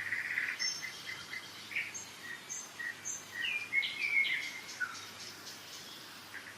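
Several songbirds singing in a spring forest: scattered chirps and short whistled notes, with a rapid trill at the start and another from about four to six seconds in, over the steady rush of a mountain river.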